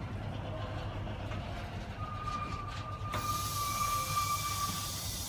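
A stationary Class 70 diesel freight locomotive idling with a steady low hum. A steady high whine joins about two seconds in, and a sudden loud hiss of air starts about three seconds in.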